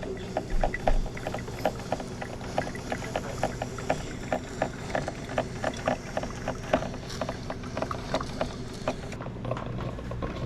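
Boat motor running with a steady low hum, with quick regular knocks, about three to four a second.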